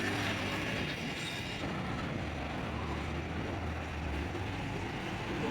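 A steady low mechanical rumble, like an engine running, with a noisy hiss over it.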